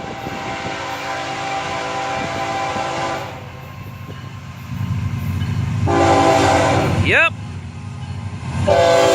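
Diesel freight locomotive's multi-chime air horn blowing for a grade crossing: a long blast, a pause in which the locomotive's engine rumble grows as it nears, a shorter blast, then another blast beginning near the end.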